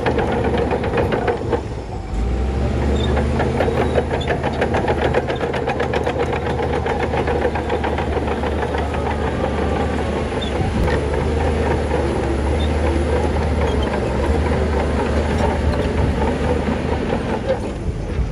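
Shantui crawler bulldozer's diesel engine working under load, with a fast clanking rattle from its steel tracks. The engine note deepens and grows stronger about two seconds in.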